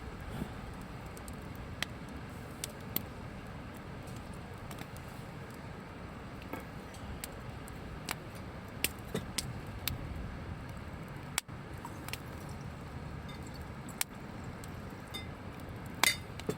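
Wood campfire crackling, with scattered sharp pops and a louder cluster of pops near the end, over a steady rush of river water.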